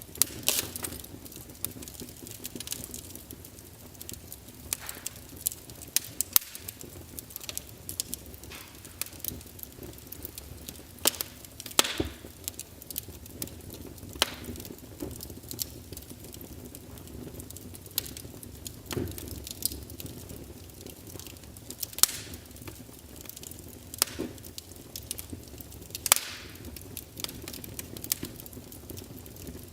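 Wood fire crackling in a fireplace: a soft steady hiss with frequent irregular snaps and pops, a few of them much louder than the rest.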